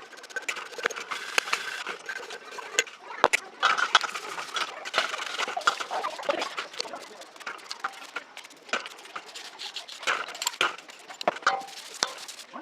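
Hand work on the small metal parts of a vintage oil can: irregular sharp clicks and knocks over uneven scraping.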